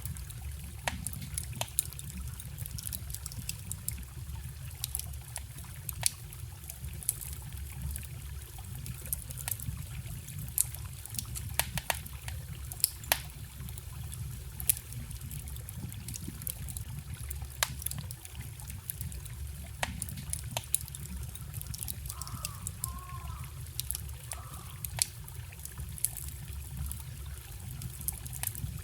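Wood fire crackling, with sharp irregular pops, over a steady trickling forest stream. A couple of short chirps come about three-quarters of the way through.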